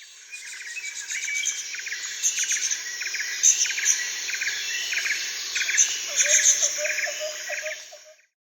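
Chorus of chirping animal calls over a steady high buzz, with short chirps repeating about twice a second. A lower, pulsed call joins near the end, then the chorus fades out.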